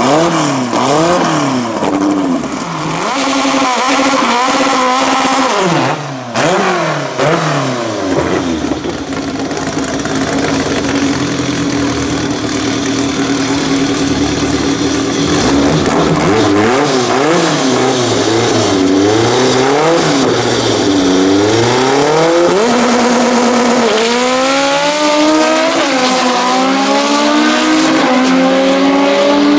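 High-revving naturally aspirated 2.4-litre Honda K24 four-cylinder in a Honda Civic EJ9 drag car. It is blipped up and down repeatedly, then held at steady revs. Near the end it launches hard, the revs climbing steeply and dropping back at each upshift.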